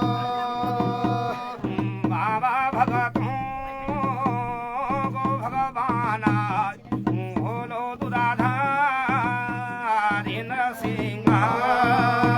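Garhwali jagar devotional song: a man sings a long, ornamented, wavering melodic line over steady held instrumental chords and a drum beat. The held chords carry on alone briefly at the start and again near the end.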